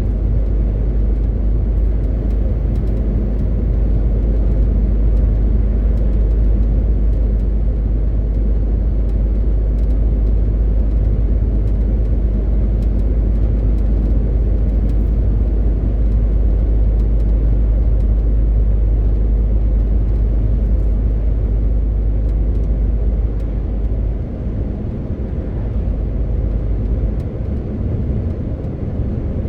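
MAN TGX 18.520 truck's straight-six diesel running steadily on the move, a loud deep drone mixed with road noise. About three-quarters of the way through, the deepest rumble drops away somewhat and the level eases.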